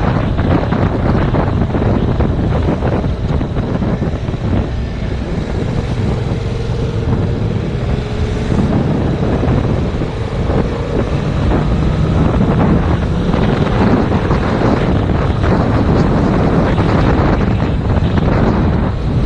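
Heavy wind buffeting on a helmet- or bike-mounted GoPro at riding speed, with the 2019 Yamaha MT-07's parallel-twin engine running underneath.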